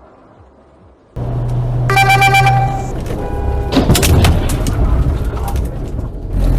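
Road noise inside a car, with a car horn sounding for about a second and then briefly again. Right after comes a loud thump and a rattle of sharp knocks.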